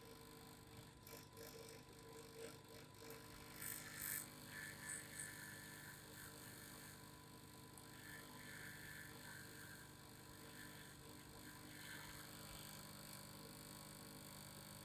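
Faint steady vibrating hum of a few held tones, with a few light ticks in the first seconds and a brief hiss about four seconds in.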